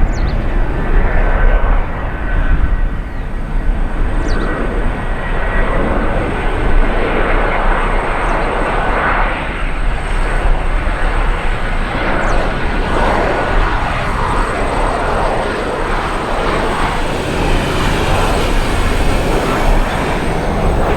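Jet airliner engines running, a loud, steady rumble with a faint high whine on top.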